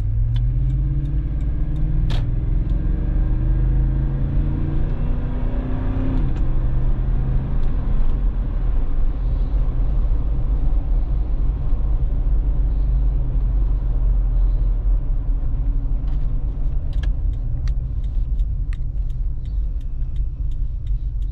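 2013 Lexus GX460's 4.6-litre V8 through a Magnaflow exhaust, heard from inside the cabin. It accelerates with its pitch rising for about six seconds, drops back, then cruises with a steady low rumble. A run of light clicks comes near the end.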